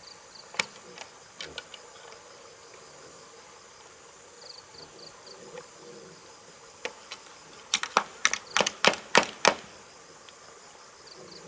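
A run of about ten sharp knocks or cracks in quick succession about two-thirds of the way in, with a few single clicks earlier, over insects chirping in short repeated pulses.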